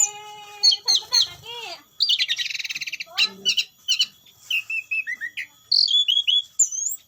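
Orange-headed thrush (anis merah) singing a varied song: clear held whistles, fast trills and quick chattering and slurred notes, in phrases with short pauses between.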